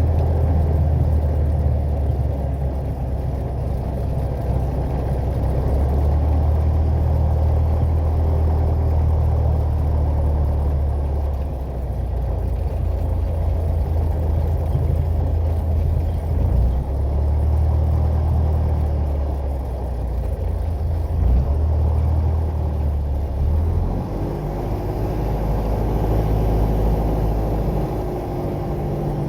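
Piper PA-28 Warrior's four-cylinder piston engine and propeller droning steadily, heard from inside the cabin, the note shifting a little now and then.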